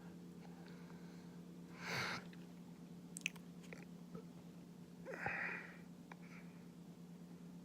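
A person's breathing close to the microphone: two short breathy exhales, about two and five seconds in, with a few small mouth clicks, over a faint steady low hum.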